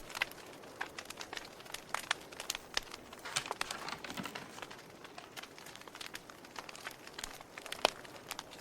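Wood fire crackling: irregular sharp pops and snaps over a faint hiss, with one louder pop near the end.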